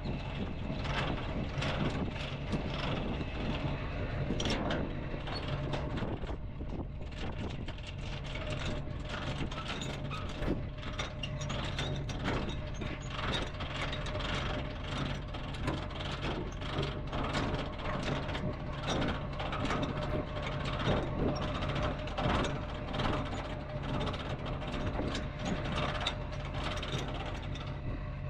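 Mechanical clicking and clattering, many irregular knocks, over a steady low hum.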